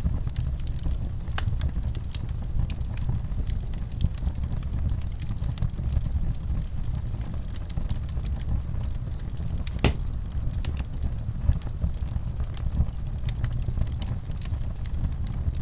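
Wood fire burning with a steady low rumble and irregular sharp crackles and pops, one louder pop near the middle.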